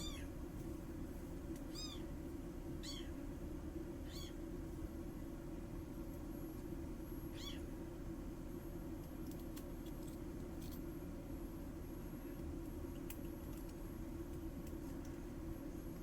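A small animal calling: five short, high calls that rise and fall in pitch, in the first eight seconds, over a steady low hum. A few faint clicks follow later on.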